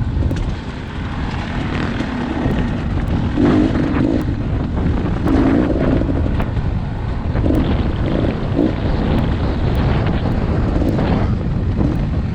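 Dirt bike engine running while riding, with heavy wind buffeting on the microphone; the engine note swells a few times.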